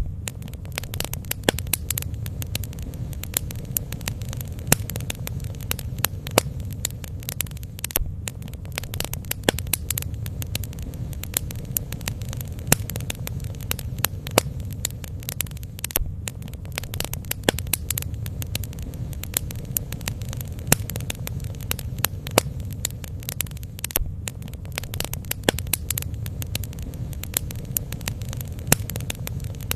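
Bonfire burning: frequent sharp crackles and pops at irregular intervals over a steady low rumble.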